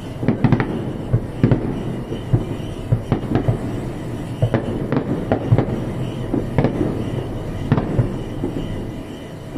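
Aerial fireworks bursting in a fast, irregular string of sharp bangs and crackles, several a second.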